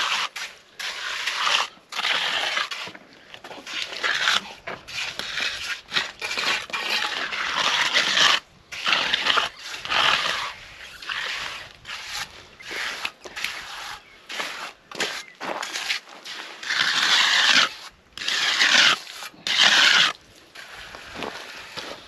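Rough scraping and crunching of gritty material in short bursts, broken off abruptly again and again.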